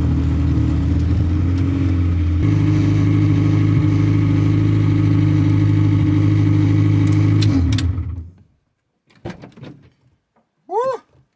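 Honda K24 inline-four engine of a K-swapped Toyota MR2 Spyder running steadily under way, heard from inside the cabin. The engine is running with a bare throttle body and no air intake fitted. Its note jumps higher about two and a half seconds in and cuts off abruptly about eight seconds in.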